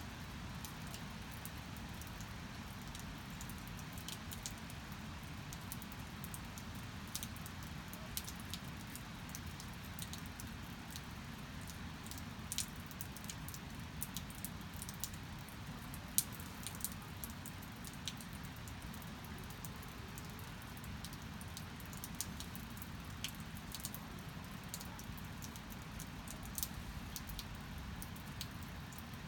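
Rain falling, with many scattered sharp drips striking close by over a steady low rumble.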